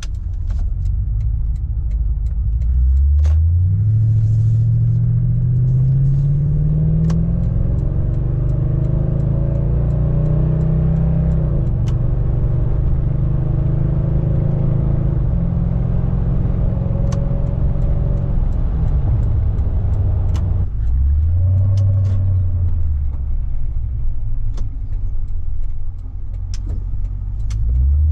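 A 2014 Toyota Tundra's 5.7 L i-Force V8 running through a Flowmaster Super 40 muffler while driving: the engine pulls up in revs about three seconds in and holds there, eases off around twenty seconds, then picks up briefly twice near the end.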